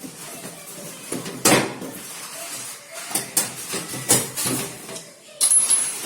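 A series of sharp knocks, clatters and a scrape as hard parts are handled during the installation of a front-loading washing machine.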